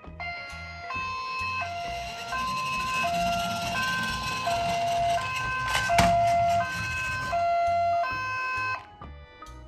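Two-tone hi-lo ambulance siren, alternating between a high and a low note about every 0.7 seconds and stopping near the end, over background music with a steady low beat. A sharp click about six seconds in.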